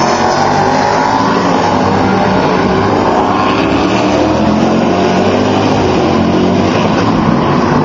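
Race car engines running loud and continuous through a tight hairpin. The engine pitch falls over the first couple of seconds as the cars slow for the corner.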